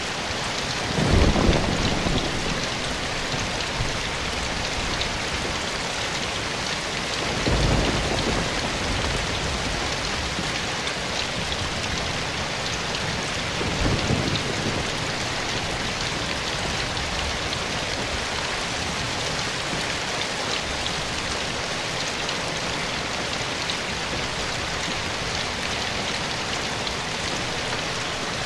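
Steady rain falling in a forest, an even hiss of drops. Three brief low rumbles rise out of it: one about a second in, one near the middle and one a little after.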